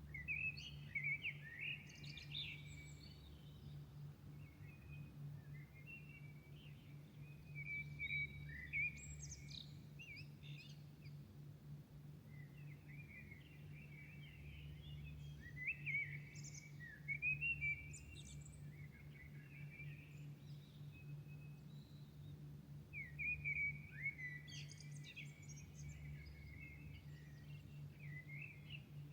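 Songbirds singing at dawn in short twittering phrases, several loud bursts standing out, over a steady low hum.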